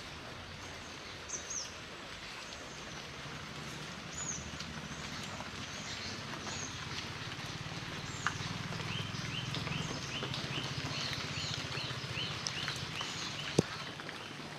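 Heavy monsoon rain falling steadily, with birds calling through it: scattered short chirps, then a quick run of about four repeated calls a second in the second half. A low steady hum lies underneath, and a single sharp click sounds near the end.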